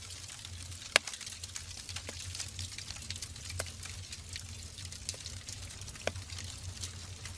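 Wood fire burning in a fireplace: a steady hiss and low rumble of flames with irregular crackles and pops from the logs, the sharpest pop about a second in.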